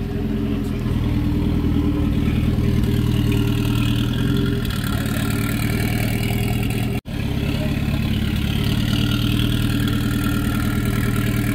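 Alfa Romeo 4C's turbocharged four-cylinder running at low revs as the car idles and creeps along, a steady deep drone. The sound breaks off for an instant about seven seconds in, then carries on the same.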